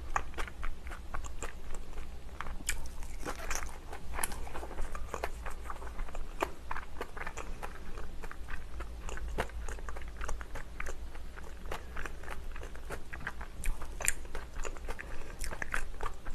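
Close-miked chewing and biting of a spicy red-filled dumpling, with many small wet mouth clicks and soft crunches all through, over a faint low hum.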